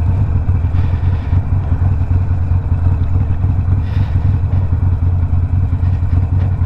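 Harley-Davidson Sportster Iron 1200's air-cooled V-twin, fitted with a Two Brothers 2-into-1 exhaust, running steadily with a deep, even exhaust rumble and no revving.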